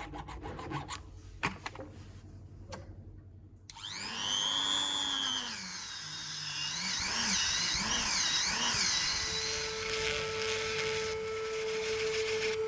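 A few light taps and scrapes. Then, about four seconds in, a small electric power tool starts up and runs with a high whine that wavers up and down in pitch before settling into a steady tone.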